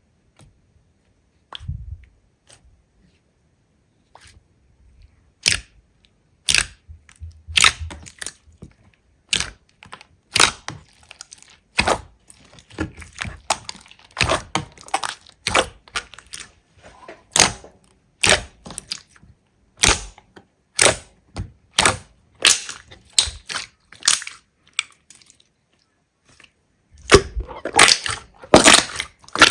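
Slime being squeezed and pressed by hand, giving sharp crackling pops. The pops come about once or twice a second after a few nearly quiet seconds, then bunch into a dense run of crackles near the end.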